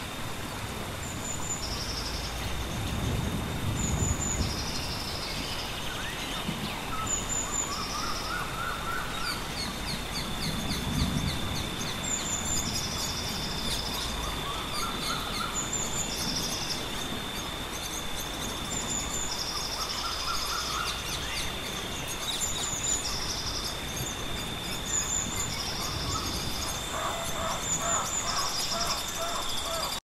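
Rainforest ambience: birds repeating short high calls every couple of seconds, with a few lower rising calls, over a steady wash of water noise and a thin steady insect whine. Two low rumbles come about three and eleven seconds in.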